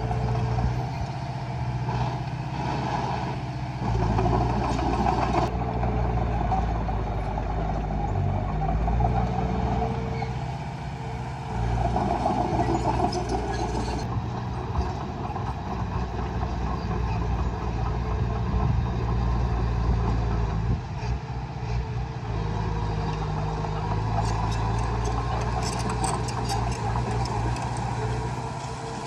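Diesel engine of heavy earthmoving machinery running steadily, its pitch changing a few times.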